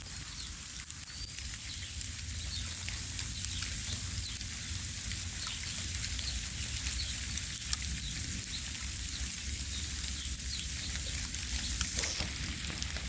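Steady outdoor hiss with light pattering ticks and a few faint, brief high chirps over a low rumble.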